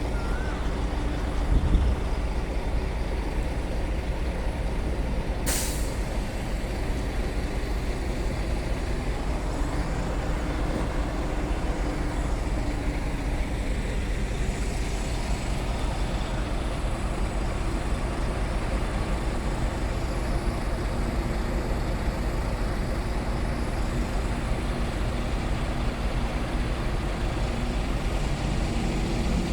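Heavy truck's diesel engine running steadily, with a low thump near the start and one short, sharp air-brake hiss about five seconds in.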